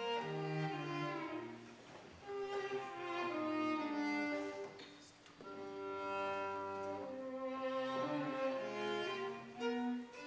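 Instrumental introduction played on bowed strings, violin and cello, in slow sustained phrases, with a brief lull about five seconds in.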